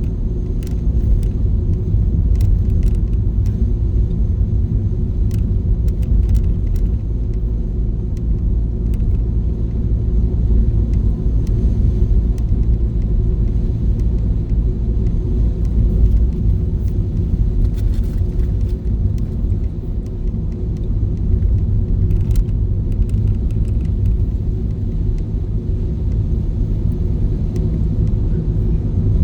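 Steady low rumble of a car driving, heard from inside the cabin: road and engine noise, with a few faint scattered clicks.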